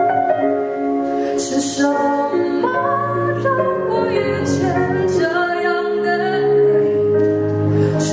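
A woman singing a song with long held notes over an instrumental backing with a bass line.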